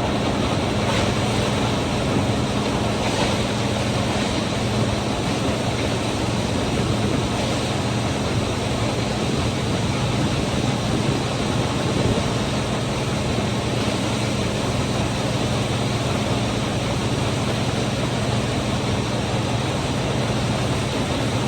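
Feed mill running steadily, grinding ear corn: a loud, even rush of noise over a constant low hum, with a few faint ticks.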